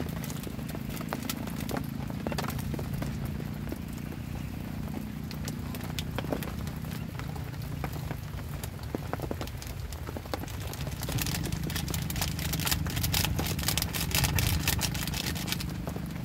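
Heavy rain pattering on a camping tent or tarp shelter: a steady low rumble with many individual drops ticking. The rain grows heavier about eleven seconds in.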